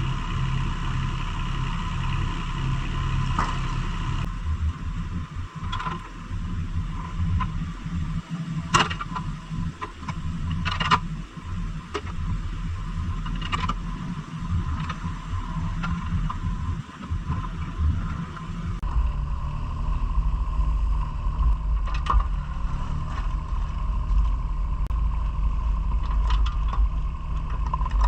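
Engine running steadily, with scattered clanks and knocks; its low sound changes character about two-thirds of the way through.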